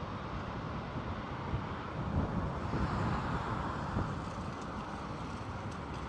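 Strong gusty storm wind rushing over the microphone, a steady noise that swells for a couple of seconds midway.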